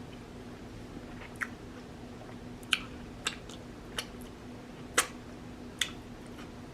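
Close-up eating sounds: about six short, wet mouth smacks and clicks at irregular intervals while chewing seafood boil, over a faint steady hum.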